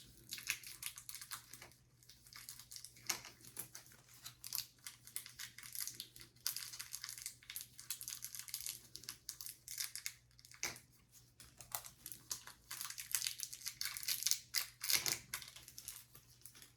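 Gloved hands tearing open and crinkling unit-dose medication packets: a long run of crackles and small clicks.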